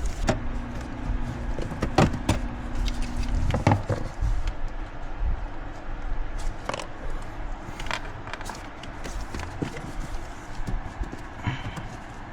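Irregular clicks, taps and knocks of hands and tools working the plastic trim panel and its screws and clips under a car's dashboard, with a low steady hum in the first few seconds.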